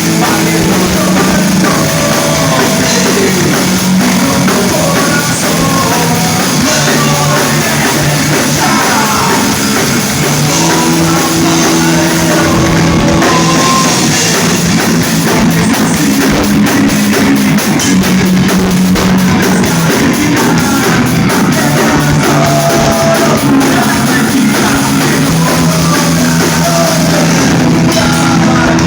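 Rock band playing live: electric guitars, bass and a drum kit, loud and dense without a break.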